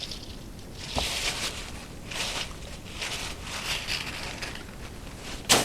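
Rustling and scraping from handling the cut-open paper element of an oil filter, with a click about a second in and a sharp knock near the end.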